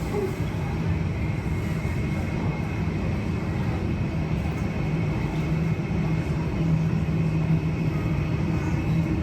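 Steady low rumbling machinery noise with a steady hum and a faint high whine above it, unchanging throughout.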